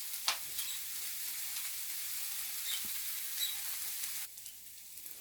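Chopped onion frying in vegetable oil in a pan: a steady sizzle with small scattered crackles, getting quieter near the end.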